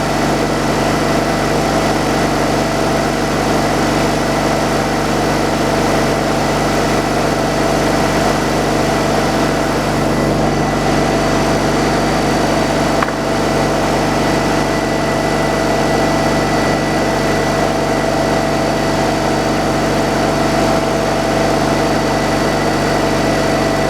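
Sawmill engine running steadily and evenly, with a constant whine over its drone.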